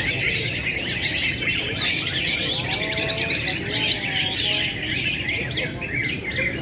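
Many caged cucak hijau (greater green leafbirds) singing at once at a songbird contest: a dense, unbroken chorus of rapid chirps and trills. A steady low crowd murmur runs underneath.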